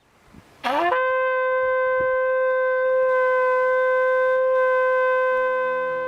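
Shofar blast: the note scoops up at the start and settles into one long, steady call lasting about five seconds, then fades. Soft background music comes in near the end.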